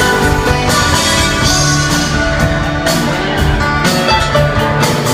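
Band music: plucked string instruments such as guitar playing over bass and a drum kit keeping a beat.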